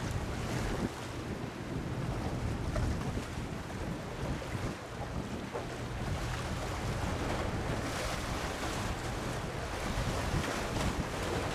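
Wind buffeting the microphone over the wash of sea waves, rising and falling in gusts, with a low steady hum during the first few seconds.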